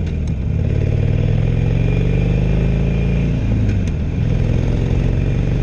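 Harley-Davidson Sportster 1200 air-cooled V-twin on its stock exhaust, running steadily under way with wind and road hiss over it.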